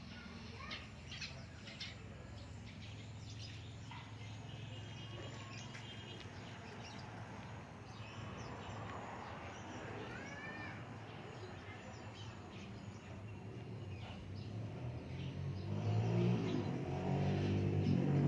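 Birds chirping in short calls over steady background noise; near the end a low rumbling sound grows louder and takes over.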